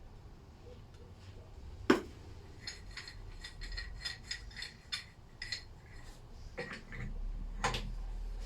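Metal clinking and a sharp knock from parts of a Lister D stationary engine being worked on by hand, then a low rumble from about seven seconds in as the crankshaft starts to be turned over.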